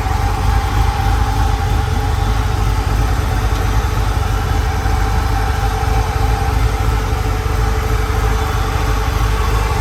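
LS-based 408 cubic-inch stroker V8 idling steadily and smoothly, not skipping a beat.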